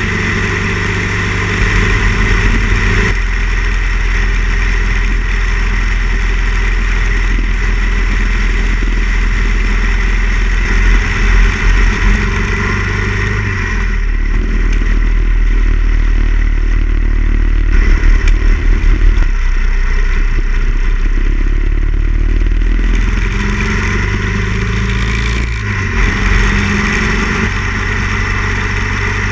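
Harley-Davidson Ironhead XL1000 Sportster's air-cooled V-twin engine running under way, heard with the rush of riding wind. The engine note changes a few times as the bike speeds up and slows down.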